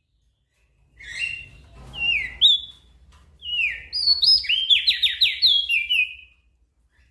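A small songbird singing after about a second of silence. It gives phrases of clear whistled notes, many sliding downward, with a quick run of steep sweeps near the middle. The song stops about a second before the end.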